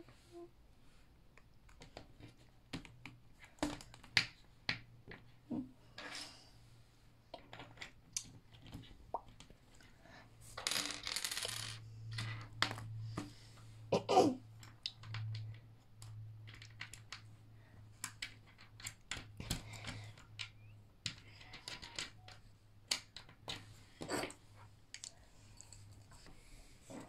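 Small Meccano Junior construction-set parts clicking, tapping and clattering against each other and the table at irregular intervals as they are handled and fitted together, with a brief rustle about ten seconds in. A low steady hum sits under the middle part.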